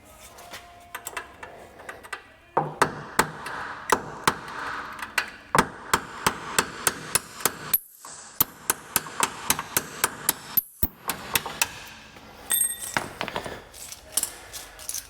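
Hammer striking metal in a long, irregular series of sharp blows, about two a second, each with a short ring. The blows are driving out a Humvee hood hinge pin whose cotter pin has snapped off.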